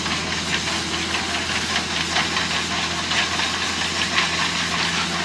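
An engine running steadily at idle, with rapid, irregular clicking and a hiss over it.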